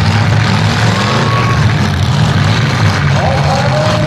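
Several demolition derby cars' engines running at once, loud and steady, with a low engine drone under a dense noisy wash.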